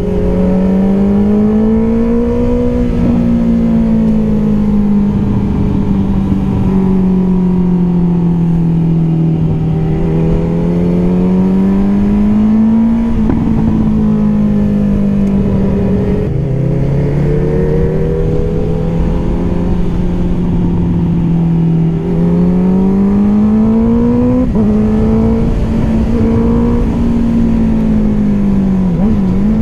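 Honda CBR650R's inline-four engine through an Akrapovic exhaust, under way: its note rises and falls with the throttle, with a few sudden jumps in pitch at gear changes.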